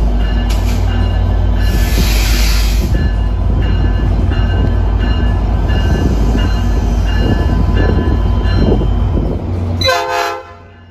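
Tri-Rail diesel locomotive and its train approaching and pulling along the platform, a loud steady rumble of engine and wheels. A short pitched tone sounds just before the end, then the sound cuts off abruptly.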